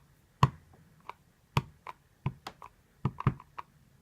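A rubber stamp tapped over and over against an ink pad as it is inked with black ink: a dozen or so sharp, uneven taps and clicks.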